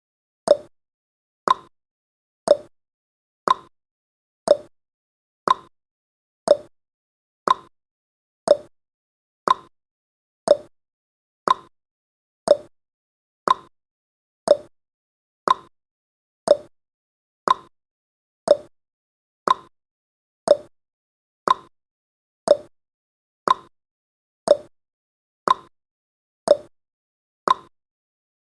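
Clock-style tick-tock sound effect of a countdown timer: one short tick each second, alternating between a lower and a higher pitch.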